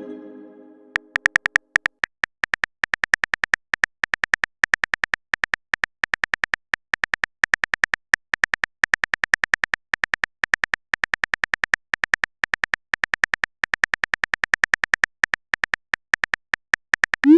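Rapid electronic keyboard-typing clicks from a texting-story app, several a second in runs with short pauses, as a message is typed out letter by letter. A chat chime dies away at the start, and a short rising swoosh of a message being sent comes at the very end.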